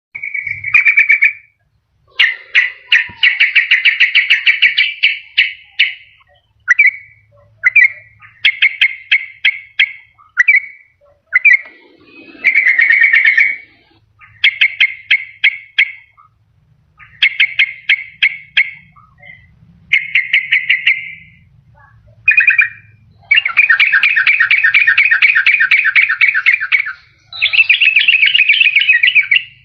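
Yellow-vented bulbul (trucukan) singing: bursts of quick, bubbly chattering phrases separated by short pauses, running into a long, dense trill of rapid notes near the end.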